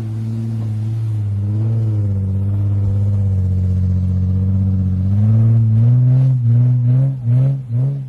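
Off-road vehicle's engine working hard on a steep, sandy hillclimb, holding a steady pitch at first. From about five seconds in, the revs rise and fall quickly, about twice a second.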